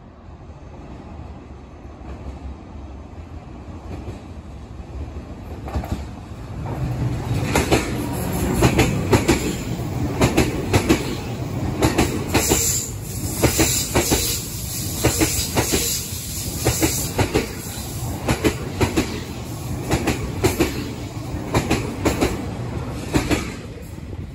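Train Suite Shikishima, an E001 series cruise train, passing through a station. Its sound builds as it approaches, then its wheels give a long run of sharp clicks over the rail joints as the cars go by, and it drops away near the end.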